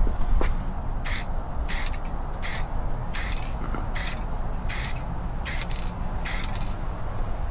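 Black spray paint going on in short hissing bursts, about one to two a second, over a low background rumble.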